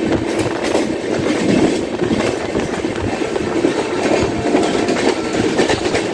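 Trains running fast on the rails: a steady rush of wheel and rail noise with rapid clicks as wheels clack over the rail joints. Another train passes close alongside on the next track.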